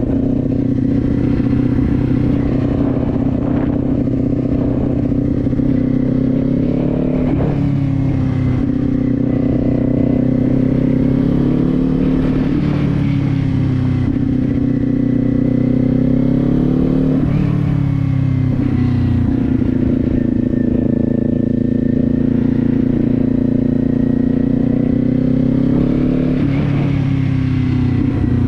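Kawasaki Z400's parallel-twin engine running under way, its pitch rising and falling with the throttle, with sudden breaks about four, seven and a half, twelve and a half, seventeen and twenty-six seconds in, typical of gear changes.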